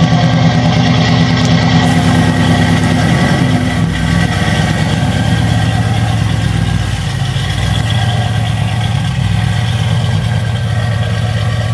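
2005 Ford Mustang GT's 4.6 L three-valve V8 idling through Flowmaster Super 10 mufflers and an off-road H-pipe. It gives a steady, loud exhaust note that settles slightly lower about four seconds in.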